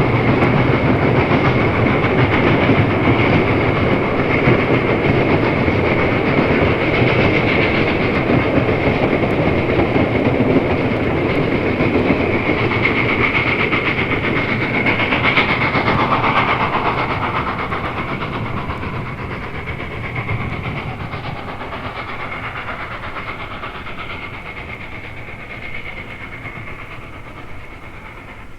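A Norfolk & Western class J 4-8-4 steam train running past, its cars clattering over the rail joints. The train fades away over the second half.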